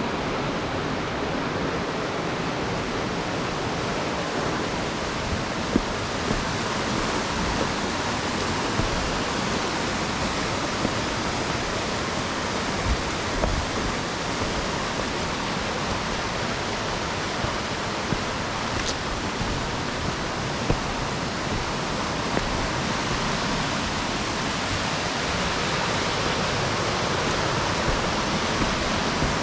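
Mountain waterfall rushing steadily, with a few faint knocks now and then.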